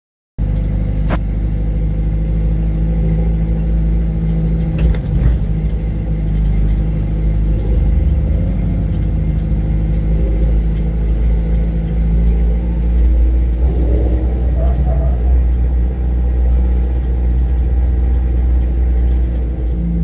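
Jeep engine running steadily as the vehicle drives, a deep, even drone, with a few sharp knocks about one and five seconds in.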